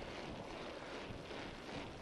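Wind noise on the microphone of a moving bicycle rider: a steady rushing hiss with uneven, gusty low rumbles.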